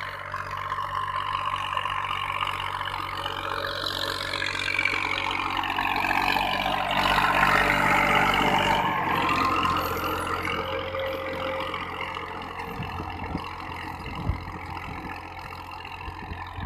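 Farm tractor engine running steadily, growing louder to a peak about halfway through and then easing off again, with a single short knock near the end.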